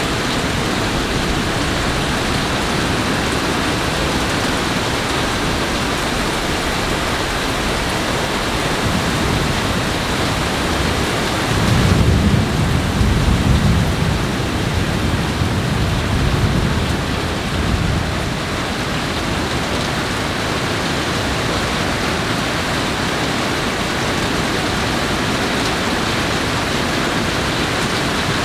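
Steady rain falling during a thunderstorm. About midway, thunder rumbles low for roughly six seconds in several swells.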